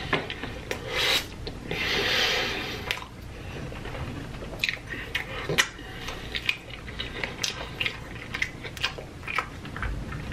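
Close-miked wet chewing of a mouthful of chili cheese hot dog. Two longer hissing breaths come in the first three seconds, then a run of sharp, irregular wet clicks and smacks of the mouth.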